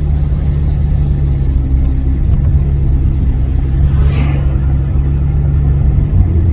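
Car engine and road noise heard inside the cabin while driving, a steady low drone with a brief higher sound about four seconds in.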